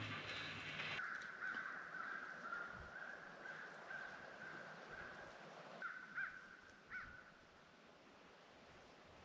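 A bird calling in a run of short repeated calls, about two a second, with two higher calls near the end before it fades. A low hum cuts off about a second in.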